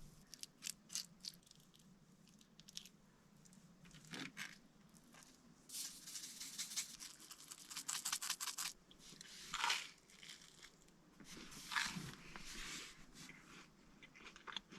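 Close-up food preparation for avocado toast: scattered small clicks and taps, then two stretches of crisp scraping and crunching lasting a few seconds each, like a knife working on toast.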